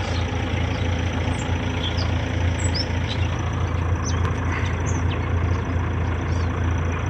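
Kioti RX7320 tractor's diesel engine running steadily, a constant low hum with no change in speed.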